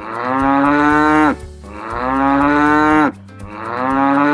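A cow mooing three times in a row, each moo long and drawn out, about a second and a half, over a quiet steady backing track.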